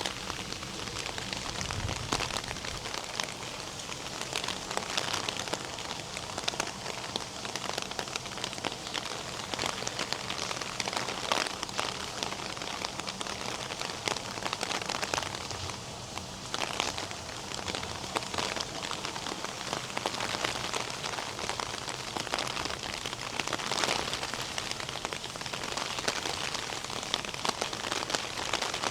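Steady rain falling, with many individual drops striking sharply and close by.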